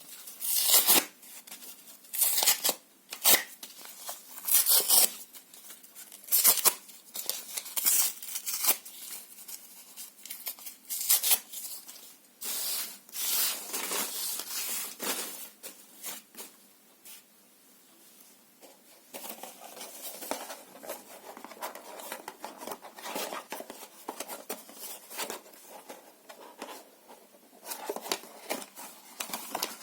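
Paper and cardboard torn by hand in a series of short, irregular rips, with brief pauses between them. It goes quieter past the middle, then turns to a steadier run of softer tearing and crinkling.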